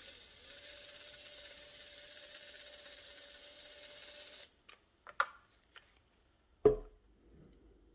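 Makita 18V brushless hammer drill running unloaded at a steady low speed with an even whine for about four and a half seconds, then stopping. A few light clicks and a knock follow as the drill is handled.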